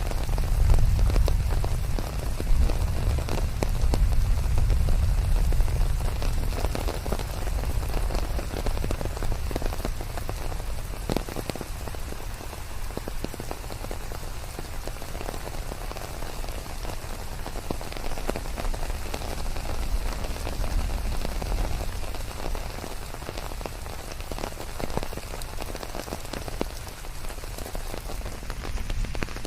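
Steady rain pattering on leaves, many close drops ticking over a dense hiss, with a deep low rumble underneath that is strongest in the first few seconds.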